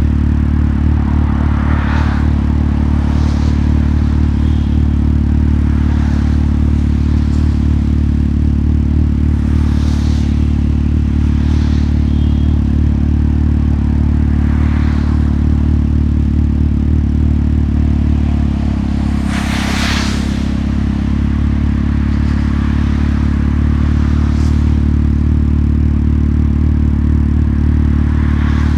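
Motorcycle engine running steadily, its tone shifting for a few seconds about two-thirds of the way through. Brief swells of rushing noise come and go over it, the loudest about twenty seconds in.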